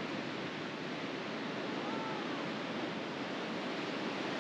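Pacific Ocean surf washing up a beach: a steady rushing of breaking waves.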